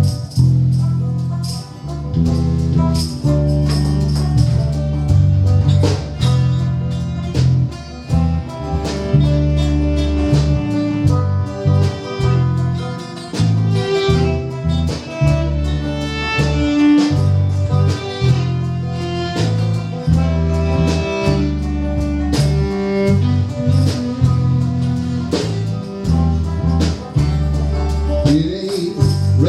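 A live band playing a song, with a steady bass line under sustained melody notes.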